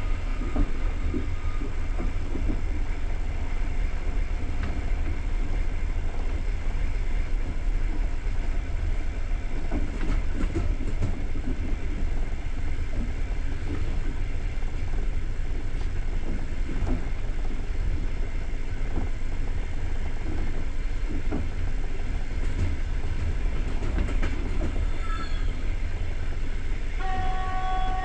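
A moving passenger train: a steady low rumble of wheels on rail with scattered clicks, heard from inside a carriage. A train horn sounds briefly near the end.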